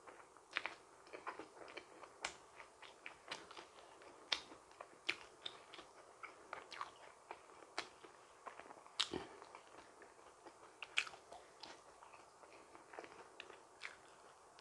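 Close-miked chewing and biting of donut: irregular small wet mouth clicks and smacks, a few a second.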